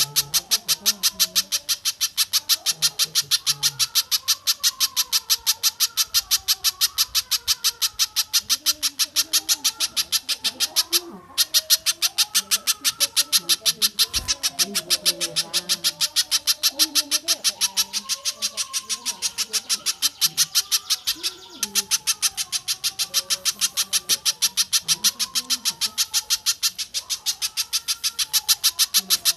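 Bird-call tutor recording: a sharp high call note repeated evenly about four times a second, with a lower warbling beneath it. The notes stop briefly twice, about 11 and 21 seconds in.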